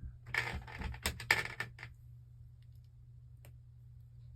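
Small plastic Lego pieces clicking and clattering as they are handled, a quick run of clicks for about a second and a half, then one more click near the end.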